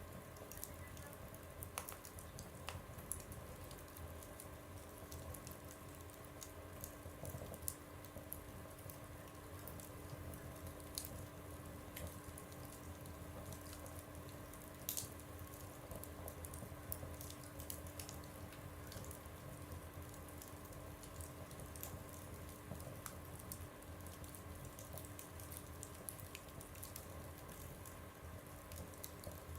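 Wood fire burning in a stove, with irregular sharp crackles and pops over a soft steady rush and a faint steady hum.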